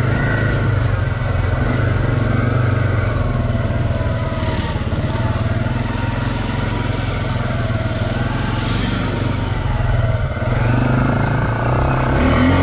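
Off-road vehicle engine running at a steady, even pace through mud, with no sharp revs.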